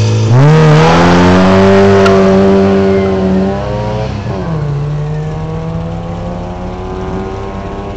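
Citroën Visa rally car's engine revving up sharply as it launches off the start line and is held at high revs, dipping at a gear change about four seconds in, then climbing again as the car pulls away and fades.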